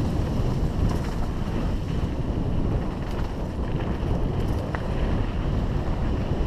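Wind buffeting the microphone of a camera on a mountain bike running downhill on a dusty dirt trail: a steady low rumble with a few faint clicks and rattles from the bike.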